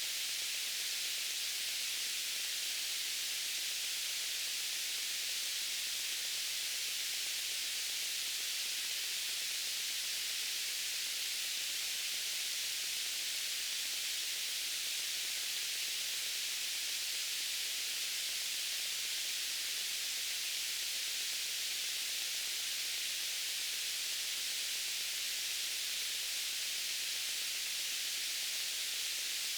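Soft, steady white-noise hiss, brightest in the treble with little bass, unchanging and with no events.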